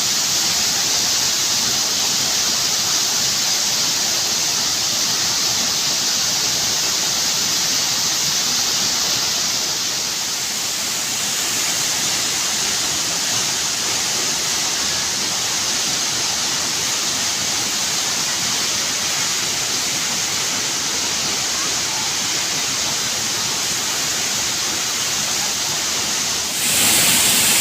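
Waterfall: steady rushing of falling water, growing a little louder near the end.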